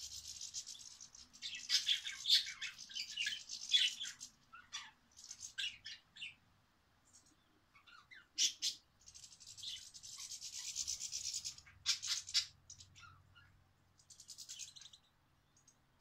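Small birds chirping and twittering in quick high-pitched runs, coming in bouts with short quiet gaps between them.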